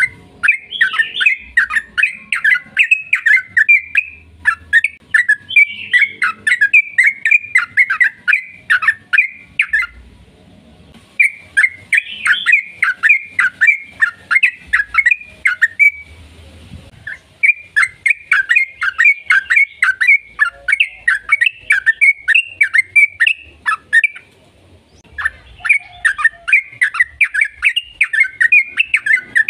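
Yellow-vented bulbul (trucukan) singing long, rapid runs of chattering notes. The runs come in bouts of several seconds, each separated by a short pause.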